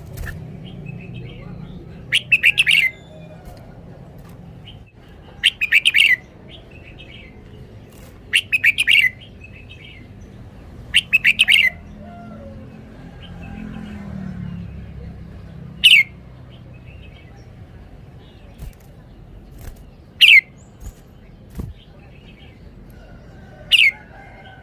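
Red-whiskered bulbul singing: four short, quick warbled song phrases a few seconds apart, followed by three single short call notes spaced out, over a steady low background rumble.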